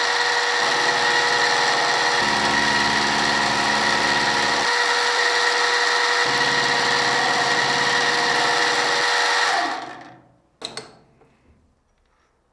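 An electric machine tool runs steadily with a fixed whine for about ten seconds, then is switched off and spins down. A short metallic clank follows.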